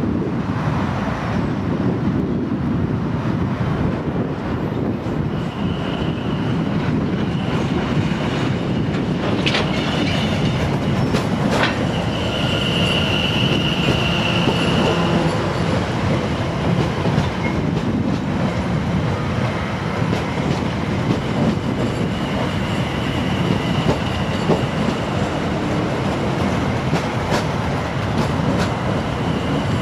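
South Western Railway Class 701 electric multiple unit running slowly along the platform, a steady rumble of wheels on rail with a high squeal that comes and goes three times and two sharp clicks about ten seconds in.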